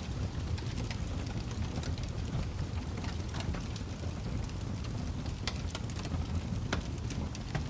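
Wood fire burning in a fireplace: a steady low rumble from the flames with irregular sharp crackles and pops, a few louder snaps among them.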